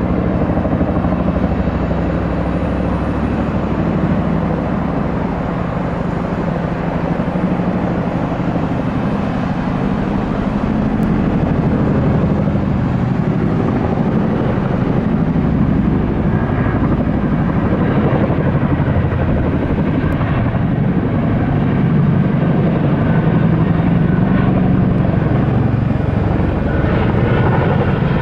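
Aircraft engines running with a loud, steady rumble, joined about halfway through by a faint high whine.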